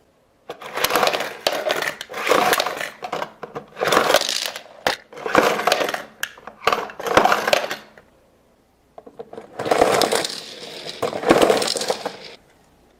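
Hard plastic toy launcher case clicking as it releases diecast cars one after another, each car clattering and rattling out in a short burst of noise about a second long, with a pause of about a second before the last two.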